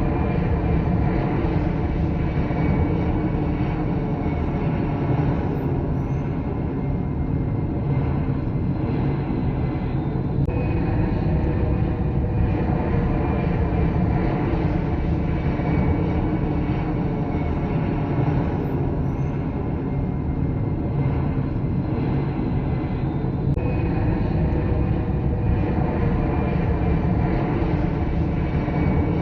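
Passenger jet airliner engines running with steady, unbroken noise and a faint high whine.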